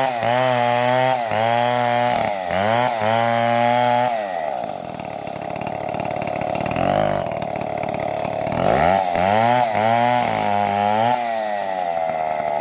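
Two-stroke Stihl chainsaw revving in repeated bursts for about four seconds, then running steadily at high speed for several seconds. Near the end it revs in bursts again before settling back to a steady high speed.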